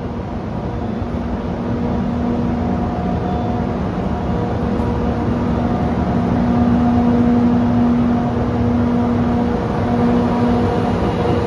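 EF64 electric locomotive hauling a train: a steady running rumble with a steady hum, growing a little louder toward the middle.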